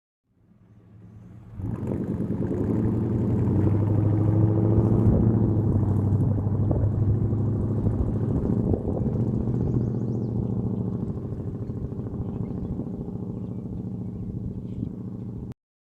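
A 1990 GMC K1500's 350 V8 through a true dual exhaust with two Jones mufflers and no catalytic converters, driving by. It grows loud quickly, peaks a few seconds in, then slowly fades before cutting off suddenly near the end.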